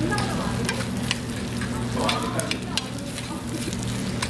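Fried rice sizzling on a hot round griddle pan while metal spoons stir and scrape it, with scattered sharp clicks of the spoons against the pan. A steady low hum runs underneath.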